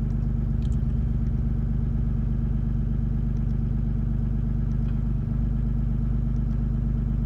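6.7 Cummins inline-six turbodiesel idling steadily soon after a cold start, with a few light clicks and a brief dip in the idle about five seconds in, the kind of click and change in tone that comes with the intake grid heater cycling.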